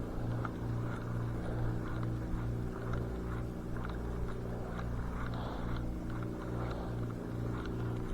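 A steady, low engine drone with a slow, regular throb of about two pulses a second.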